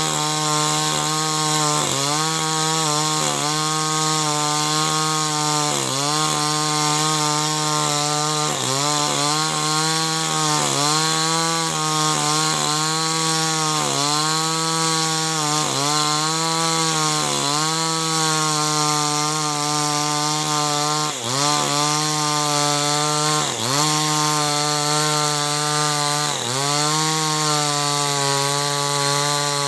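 Two-stroke gasoline chainsaw cutting wood at full throttle. The engine note sags briefly and climbs back every second or two as the chain bites into the wood under load.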